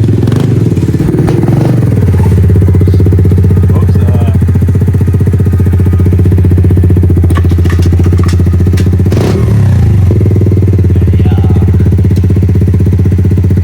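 Dirt bike engine running loud and close at a steady speed, with no real revving.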